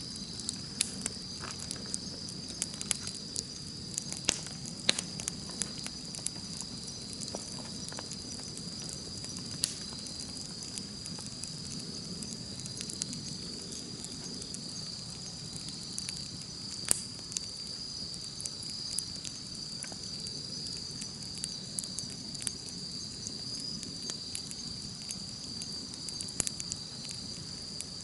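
Wood campfire crackling, with irregular sharp pops and snaps over a low steady burning rush. A continuous high-pitched insect trill runs underneath.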